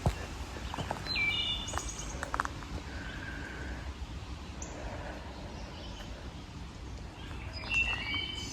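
Songbirds calling in woodland: a quick run of short whistled notes about a second in, a few single high notes, and another run near the end, over occasional footsteps on the trail.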